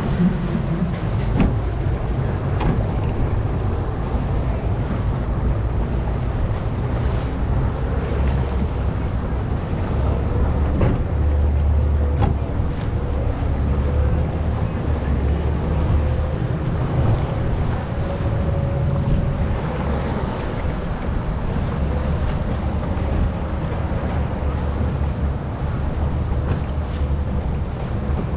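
A motorboat's engine runs steadily with a low rumble, while wind buffets the microphone and water washes past the hull.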